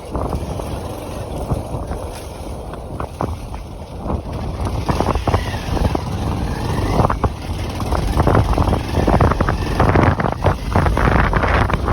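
Motorcycle running on the move, with wind buffeting the microphone; the noise grows louder about halfway through.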